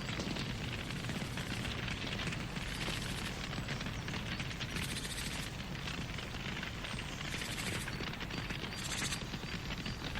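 Campfire burning with steady dense crackling and popping, and a few brighter flurries of crackle.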